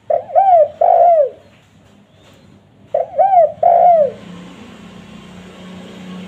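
Spotted dove (tekukur) cooing: two three-note coo phrases, each a short note followed by two drawn-out arching coos, about three seconds apart. A faint steady hiss and hum come in after the second phrase.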